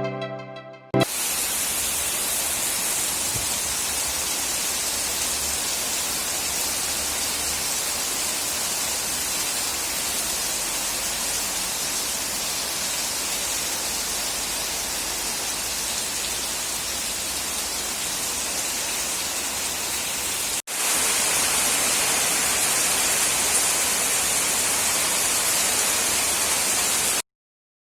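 Heavy monsoon rain falling, a steady dense hiss. After a brief break about two-thirds of the way through it comes back slightly louder, and it cuts off suddenly near the end.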